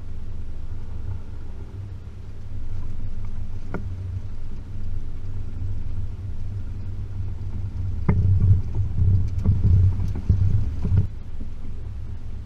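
Range Rover P38's 4.0 litre V8 driving along a rough, rutted track, with a steady low rumble. The vehicle knocks over bumps: one sharp knock about four seconds in and a loud run of knocks from about eight to eleven seconds.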